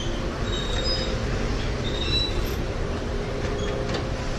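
Honda CRF1000L Africa Twin's parallel-twin engine running steadily under way, with a constant rumble of wind and road noise.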